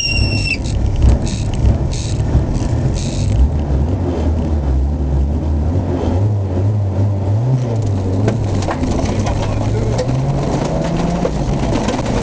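Off-road competition vehicle's engine running at the start line, with a short electronic beep from the start clock just as it begins. About halfway through, the engine revs up and rises in pitch as the vehicle pulls away over rough dirt.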